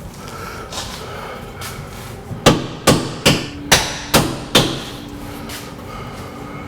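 A hammer striking six times in quick succession, about two blows a second, each blow ringing briefly.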